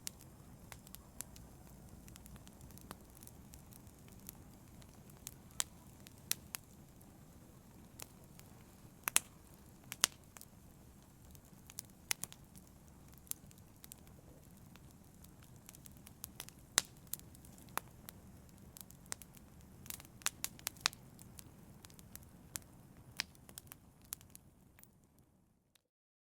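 Wood fire in a fireplace crackling, with irregular sharp pops and snaps over a low steady rumble of the flames. The sound fades out to silence near the end.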